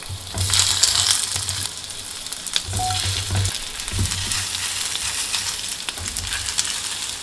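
Skewers of rice cake, carrot, cucumber and shiitake sizzling in hot oil in a frying pan as they are laid in one by one. The sizzling is loudest in the first couple of seconds, with light clicks as the skewers are set down.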